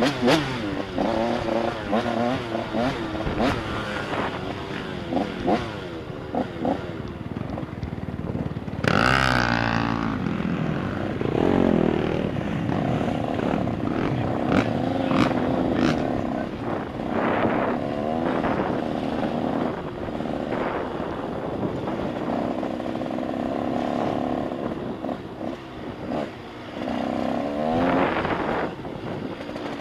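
Several 85cc two-stroke motocross bikes revving up and down on the track, their engine pitches rising and falling over one another, with one louder sweeping burst about nine seconds in.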